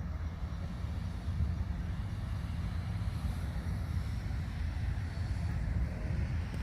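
A steady, deep rumbling noise with a faint hiss above it, even throughout and with no distinct events.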